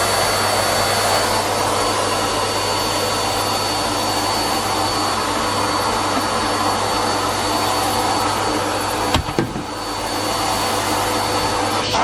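Numatic Henry Pet vacuum cleaner running steadily, a whooshing suction noise with a thin high whine and a low hum. About nine seconds in there is a sharp knock, and the level dips briefly before the suction noise picks up again.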